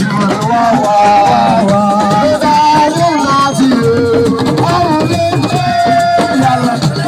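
Live siko (assiko) band music: voices singing a melody over hand drums and shaken rattles.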